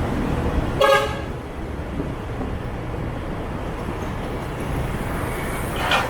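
City traffic running steadily, with one short vehicle horn toot about a second in.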